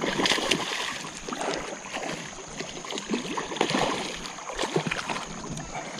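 Creek water splashing and sloshing irregularly as a hooked smallmouth bass is fought in the shallows.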